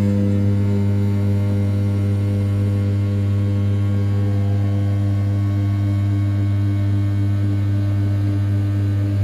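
Original Mind RZ420 CNC machine's 500 W brushless spindle running at 6000 rpm while an end mill roughs the outer profile of an A7075 aluminium block: a steady, loud hum with a strong low tone and evenly spaced overtones.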